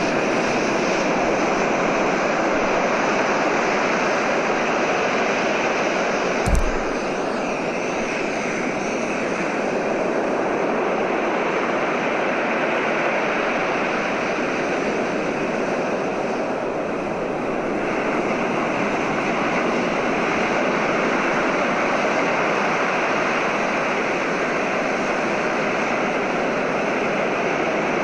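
Recorded ocean waves: a steady rush of surf, with one sharp click about six and a half seconds in.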